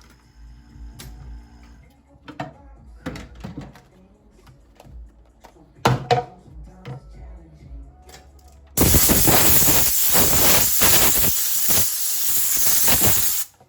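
Soft clicks and taps of handling for several seconds, then a loud steady hiss of rushing air starting about nine seconds in and cutting off suddenly some four and a half seconds later.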